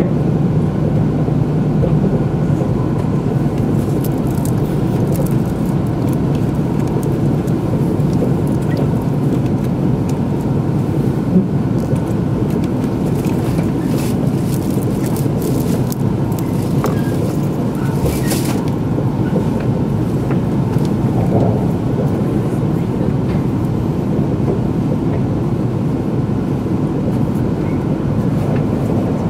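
Steady running noise of an E2-series Nagano Shinkansen train at speed, heard from inside the passenger car: a constant low rumble with a faint steady hum, and a few brief hisses.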